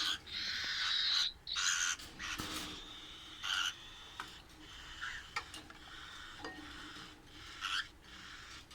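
Cockatiels in a breeding cage giving harsh, raspy calls, almost continuous for the first two seconds and then in short separate bursts.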